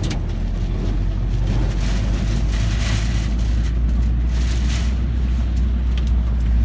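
Wind and road noise heard from inside a car driving through a typhoon: a steady low rumble, with gusts of wind rushing past that swell twice, about two and a half and four and a half seconds in.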